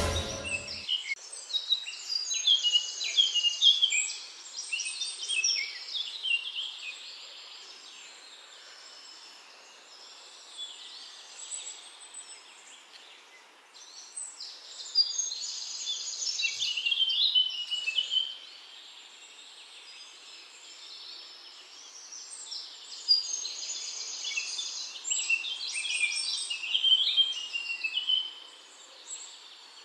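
Bird song in repeated bouts of rapid, varied chirps and trills, each bout lasting several seconds, with quieter gaps between them.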